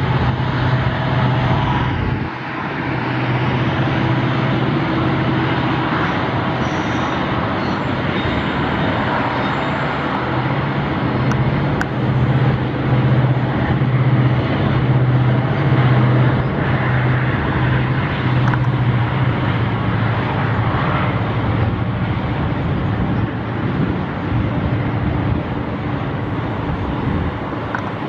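Diesel locomotive engines running with a steady low drone as a long freight train of tank wagons passes, over a constant wash of wheel and wagon noise.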